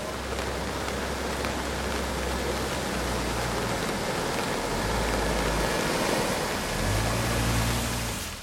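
Steady hiss of heavy rain and running water, with a low rumble underneath that shifts in strength a few times.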